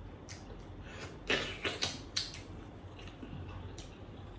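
Eating sounds from a bowl of seafood soup: a few short, noisy sounds clustered about a second and a half to two seconds in, over a low steady room background.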